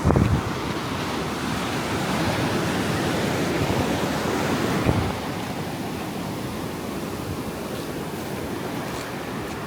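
Ocean surf washing onto the beach in a steady roar, swelling for a few seconds and then falling away about halfway through. A short gust of wind buffets the microphone right at the start.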